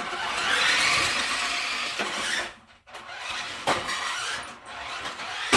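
Small brushed electric motor of an RC truck whining under throttle, with a drivetrain whir, then cutting back near three seconds and running again in shorter uneven spurts; a sharp knock near the end.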